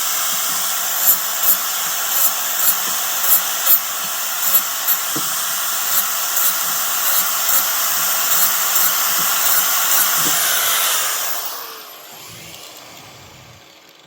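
An electric power tool's motor runs steadily with a high whine and sharp ticks about two or three times a second. About eleven and a half seconds in it is switched off and winds down, its whine falling in pitch.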